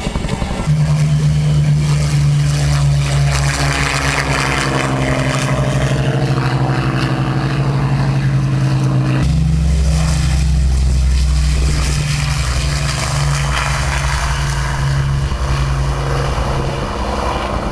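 Loud, steady drone of aircraft engines with a low hum, changing abruptly about nine seconds in.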